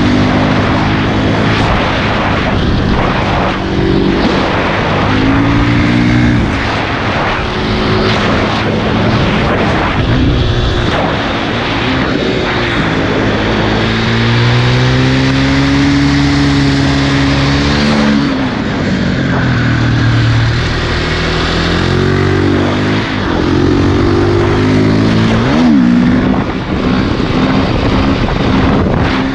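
2006 KTM 450 EXC's single-cylinder four-stroke engine, through an Akrapovic exhaust, revving up and dropping back again and again as the supermoto is ridden through the gears, with one long pull in the middle.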